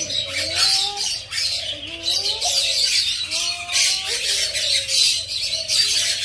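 Young parrot squawking over and over in harsh, raspy calls, several a second, with rising and falling pitched notes between them.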